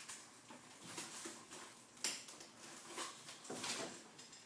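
Irregular rustling and crinkling of packaging being handled, in short scrapes with a louder rustle about two seconds in.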